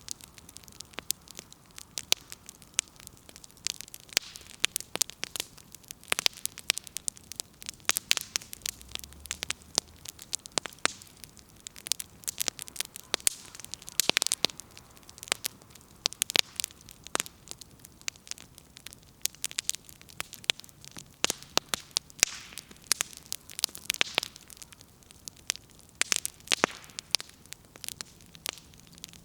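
Wood fire crackling, with sharp irregular pops and snaps of burning firewood over a soft low hiss.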